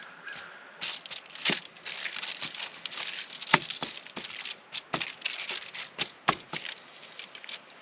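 Hands working seasoning into raw chicken thighs: irregular crinkling and rustling with a scatter of sharp clicks and taps.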